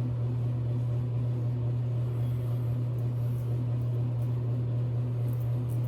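A steady low electrical or mechanical hum, with a few faint, short scrapes of a double-edge safety razor on stubble.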